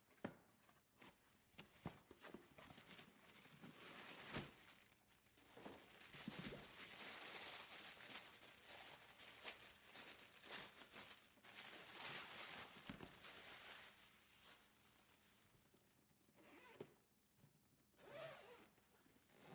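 Zipper on a hard-shell hair-dryer travel case being drawn along, faint zipping in long pulls for about ten seconds, with scattered clicks and taps from handling the case.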